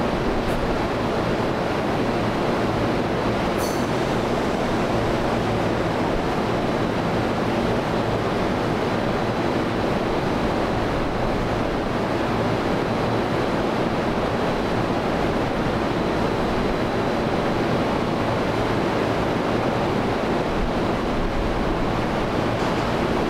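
A JR DE11 diesel-hydraulic locomotive hauling a rake of unpowered Tokyu 6000-series railcars past at a steady pace: a constant engine drone under rumbling wheel and rail noise. There is one brief sharp click about three and a half seconds in.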